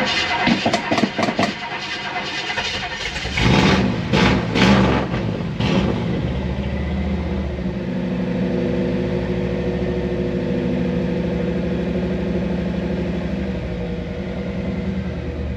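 1964 Chevrolet Impala SS engine being started: the starter cranks for about three seconds, the engine catches and revs up a few times, then settles into a steady idle.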